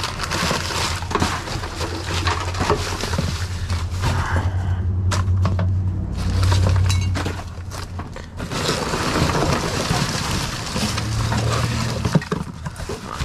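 Rummaging through a dumpster of discarded oil filters and trash: continual clattering, knocking and scraping of metal and plastic, with a steady low hum underneath.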